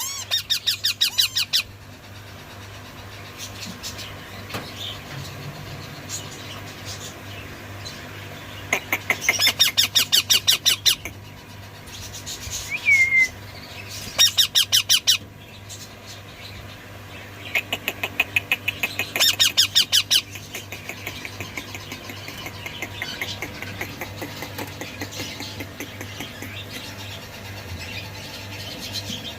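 Baby Indian ringneck parakeets calling in harsh, rapidly pulsed bursts, four of them lasting one to two seconds each, with a single short gliding chirp in between. A steady low hum runs underneath.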